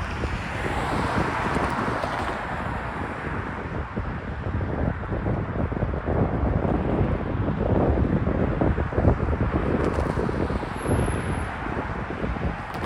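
Freight train rolling past: a steady rumble with rapid wheel clicks and clatter, and wind on the microphone.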